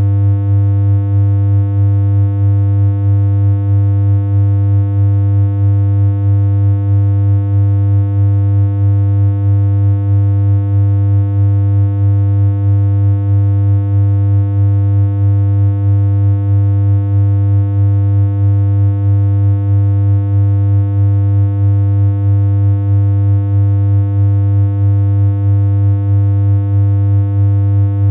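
A steady synthesized low hum: one unchanging buzzy tone with a slight regular pulse in loudness.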